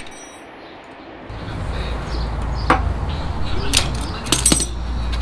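Steel hand tools clinking against the car's hub and knuckle: a few sharp metallic knocks and clinks, the last ones ringing briefly, over a steady low rumble that comes in about a second in.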